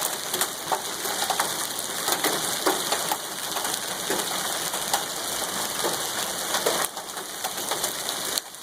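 Heavy hail and rain coming down: a dense hiss of falling stones with many sharp, irregular clicks of hailstones striking hard surfaces. The hiss drops a little about seven seconds in.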